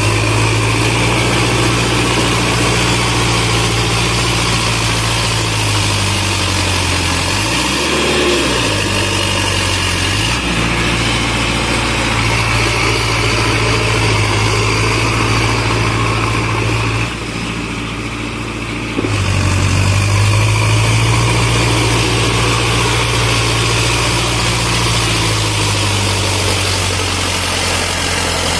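Sonalika Tiger tractor's diesel engine running steadily. Its engine speed dips and comes back up about eight seconds in, and the sound drops briefly between about seventeen and nineteen seconds.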